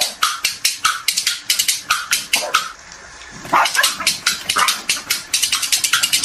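A dog barking in quick rapid yaps, about six a second, with a short pause about three seconds in.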